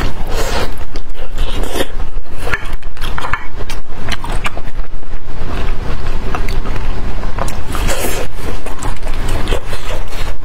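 Close-miked eating sounds: wet chewing and smacking on sticky braised meat, in irregular bursts, with the rustle of plastic-gloved hands handling the food.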